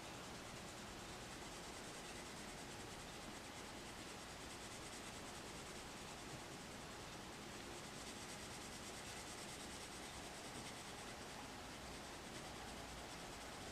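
Coloured pencil rubbing on paper: faint, steady scratching of blending strokes.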